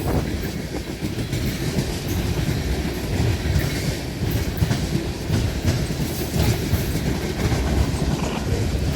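Freight cars of a CSX trash train rolling past close by, a steady low rumble with quick irregular clicks and knocks of the wheels over the rail joints.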